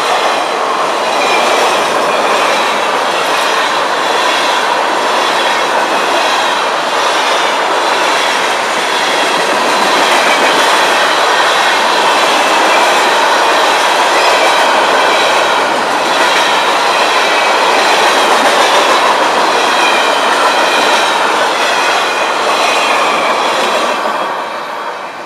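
Freight cars (autoracks and tank cars) rolling past: steady wheel-on-rail noise with regular clicks over the rail joints and a wavering high-pitched wheel squeal. The noise drops away quickly near the end as the last car goes by.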